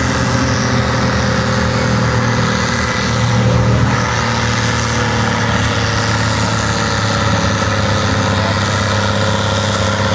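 Volvo BM 810 tractor's diesel engine running steadily at low revs, briefly a little louder about three to four seconds in.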